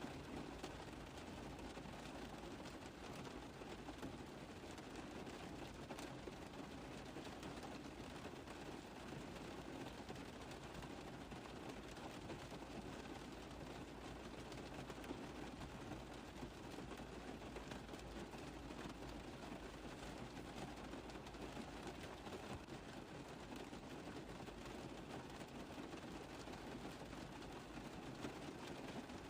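Steady rain tapping on a car roof: a dense run of small drop taps over an even hiss.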